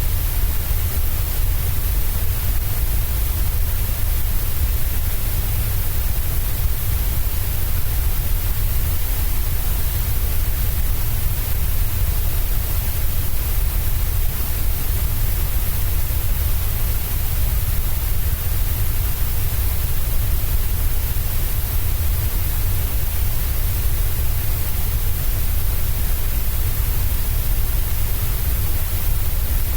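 Steady electronically generated white noise, even and unchanging, with a deep rumble under a high hiss.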